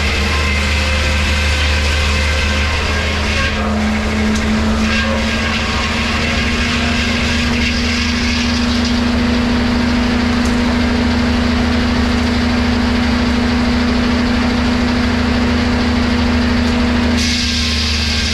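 Engine-driven sawmill machinery running steadily under power. A firm humming tone settles in a few seconds in, and the sound changes abruptly near the end.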